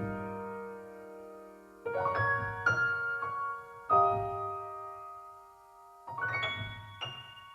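Background piano music: slow chords and single notes struck and left to ring out and fade, with fresh notes about every two seconds.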